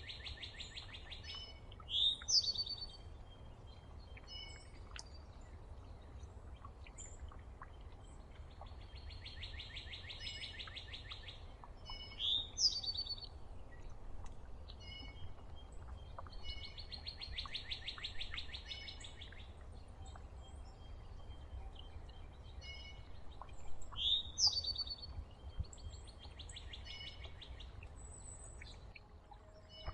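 Wild songbirds singing outdoors: a fast trill of about two seconds repeats every eight to ten seconds, and loud, sharp sweeping whistled notes come about three times. A steady low rumble runs underneath.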